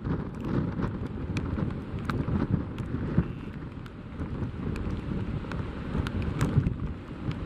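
Strong gusty wind buffeting the microphone in heavy rain, a rough, uneven rumble with a hiss of rain above it and many scattered sharp ticks.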